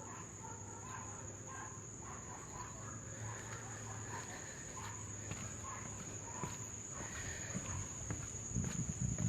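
Insects, crickets or similar, buzzing as one steady high-pitched tone, with short chirps scattered through. Near the end, footsteps on the wooden boardwalk begin.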